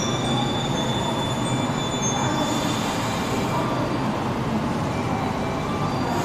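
JR 115-series electric train at the end of its arrival, standing at the platform: a steady mechanical rumble, with faint high squeal tones from the wheels and brakes dying away in the first couple of seconds.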